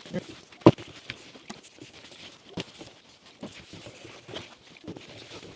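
A rag wiping a steering wheel down with wax and grease remover, with scattered rubbing and small knocks as the wheel is handled, including a sharp knock near the start and another about halfway through.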